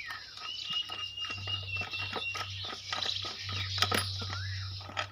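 Air filter assembly of a small petrol engine being handled: irregular light clicks and rustling, over a faint steady hum.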